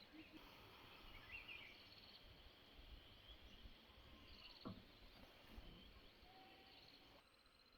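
Near silence with faint natural ambience: short insect trills and a few bird chirps, and one soft knock about halfway through.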